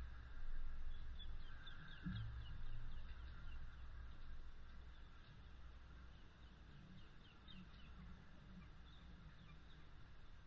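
Birds chirping in short clusters of quick high notes over a low steady rumble, during light rain.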